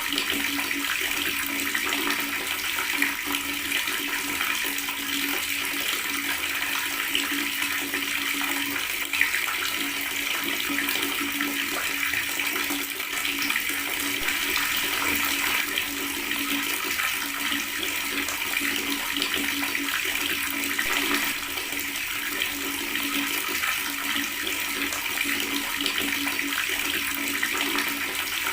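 Water tap running and gurgling, an even, unbroken flow with no pauses.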